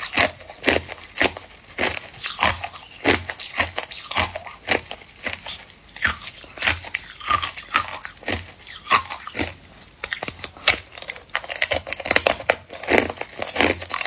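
Someone biting and chewing hard, clear ice cubes: a steady run of sharp, brittle crunches, about two a second.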